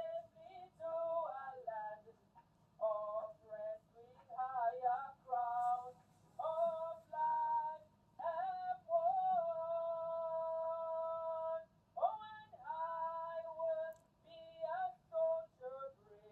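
A woman singing in short melodic phrases, with one long held note about two thirds of the way through.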